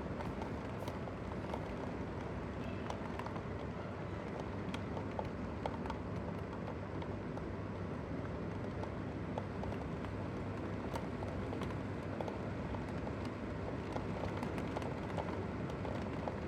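Heavy downpour of rain: a steady hiss of falling rain with many small drop ticks scattered through it.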